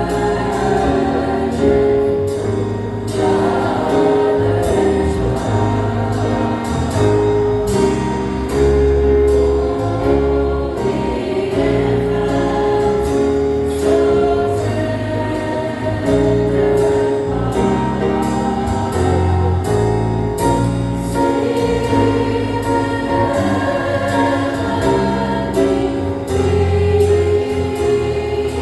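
Church choir singing a jazz-style Christmas cantata number with instrumental accompaniment: held sung notes over a stepping bass line and a steady beat.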